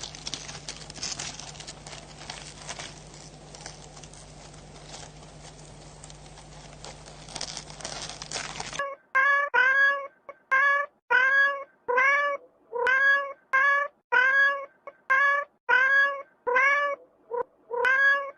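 For the first half, only a faint noisy background with a steady low hum and small clicks. Then, about halfway in, a cat starts meowing: a rapid series of short, evenly spaced meows, nearly two a second, each rising and falling in pitch.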